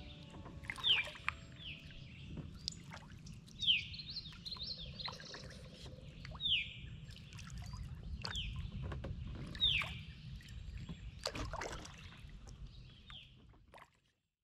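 A bird calling again and again, each call a short note sliding down in pitch, every second or two. Light water drips and ticks sound under it over a low, steady outdoor rumble, and it all fades out near the end.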